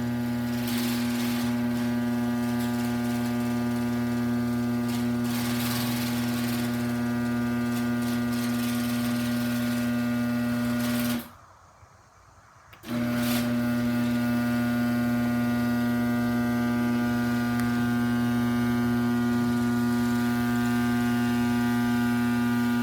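Genie garage door opener's motor running with a steady electric hum as it drives the door. It stops for about a second and a half roughly halfway through, then starts up again and keeps running.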